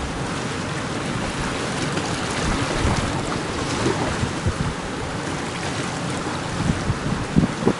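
Strong wind buffeting the microphone in irregular gusts over a steady wash of sea surf.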